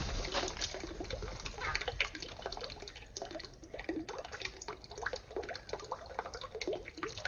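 Water trickling and splashing, with many short clicks and taps scattered throughout.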